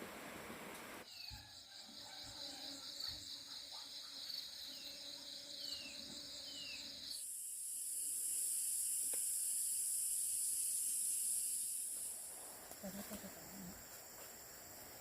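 Insects calling outdoors in a few abruptly changing stretches. First comes a pulsing high trill with a few short falling chirps, then a loud steady high-pitched insect buzz for about five seconds, then fainter insect sound.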